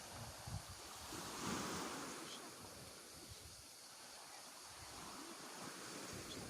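Faint wash of sea surf with wind on the microphone, swelling briefly about a second in.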